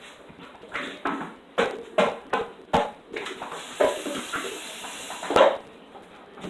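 Kitchen clatter: a dozen or so irregular knocks and clinks of dishes and utensils being handled, the loudest a little past five seconds in.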